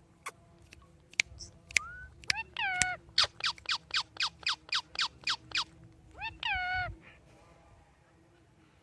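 Pet parrot calling: a few sharp clicks, then a long rising call, then a quick run of about ten short falling cries at about four a second, ending in a drawn-out call that rises and falls.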